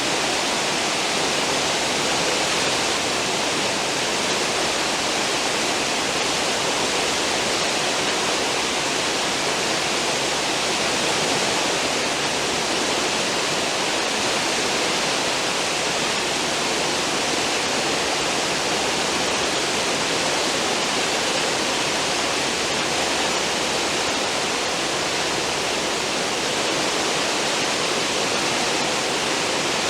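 Cruise ship's stern wake: churning, foaming seawater making a steady rushing hiss that does not rise or fall.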